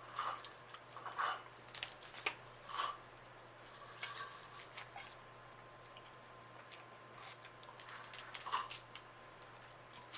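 Close-up eating sounds from a seafood boil: crab and shrimp shells crackling and snapping as they are broken, with chewing and mouth sounds. Sharp clicks and crunches come in clusters, a flurry in the first few seconds and another a little past the middle.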